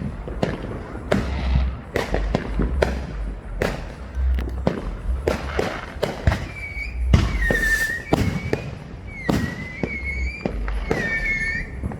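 Many consumer fireworks going off at once: a rapid, irregular string of sharp bangs and pops. From about halfway on, several whistling fireworks join in, their high whistles wavering slightly over the bangs.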